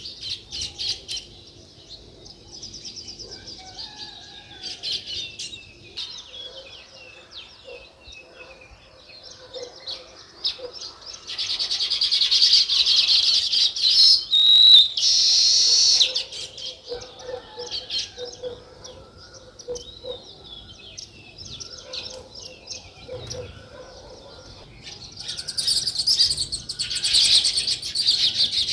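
Small songbirds chirping busily, with two louder spells of dense chattering, one around the middle and one near the end.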